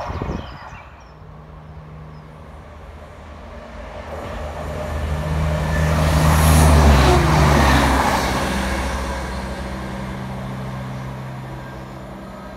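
Diesel multiple-unit passenger train running past: engine hum and rail noise swelling to a peak about six to eight seconds in, the engine note dropping in pitch as it goes by, then fading away.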